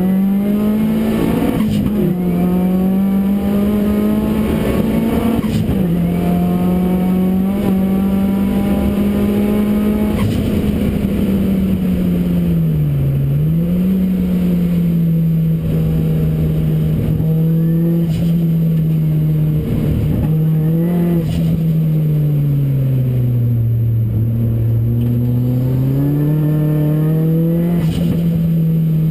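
Ford Racing Puma's modified Focus RS engine running hard at high revs. Its pitch holds high, drops briefly a little under halfway through, sags for a longer stretch later on, then climbs again near the end.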